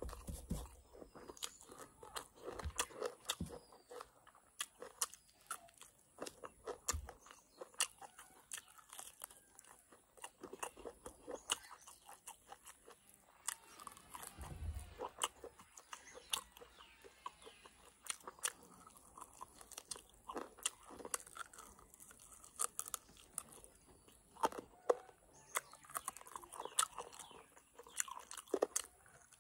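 A person eating mutton curry and rice by hand: steady chewing and biting with many sharp wet crunches and smacks throughout.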